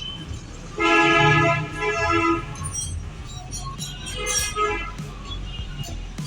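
A vehicle horn sounds once, a steady held tone lasting about a second and a half.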